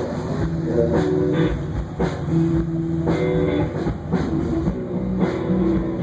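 Blues-rock band music: electric guitar notes held and changing over a steady drum beat.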